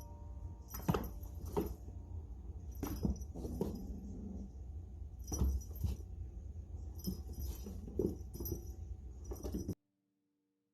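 Irregular metallic jingling, like small tags or a bell being shaken in short bursts, over a low rumble; it cuts off suddenly near the end.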